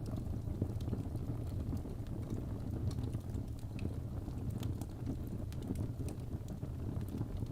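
Wood fire burning in a fireplace: a steady low rumble of flames with many small, scattered crackles and pops from the burning wood.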